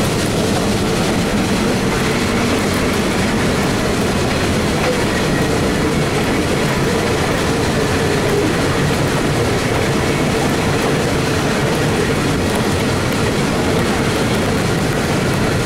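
Passenger train rolling along the track, heard from aboard a car: a steady rumble and rattle of the wheels on the rails.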